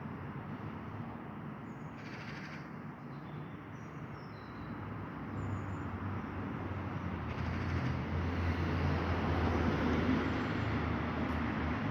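Steady background noise of road traffic with a low hum, growing louder past the middle, and a few faint high bird chirps in the first half.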